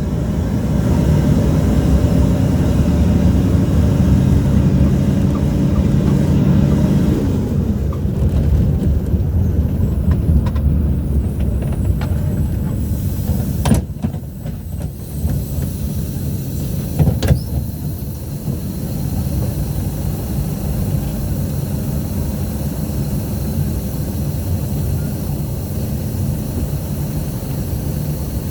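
City bus heard from on board: the engine runs strongly, then eases off and drops in pitch about seven seconds in. Two short, sharp sounds come a few seconds apart near the middle, and a steadier, quieter running rumble follows.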